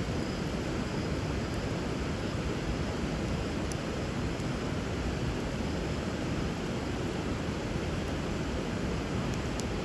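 River water flowing steadily, with a couple of faint crackles from a wood fire.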